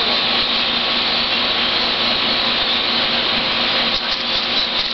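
A very large flock of birds calling all at once, a dense, steady din of overlapping chatter with no single call standing out.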